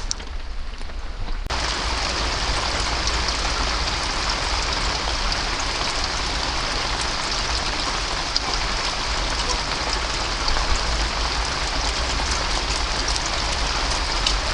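Heavy rain falling, a steady dense hiss of drops, starting abruptly about a second and a half in.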